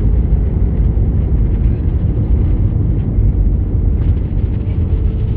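Airbus A320 heard from inside the passenger cabin during landing: a loud, steady low rumble of engines and airflow, with a faint steady whine above it.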